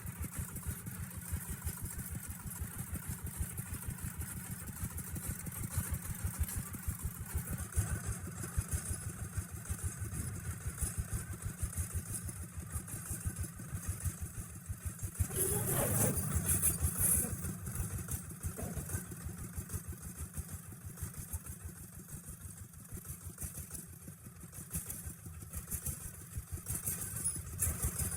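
Engine of a small log-hauling truck running at low revs with a rapid, even firing beat. About halfway through it briefly grows louder, with a tone that rises and falls.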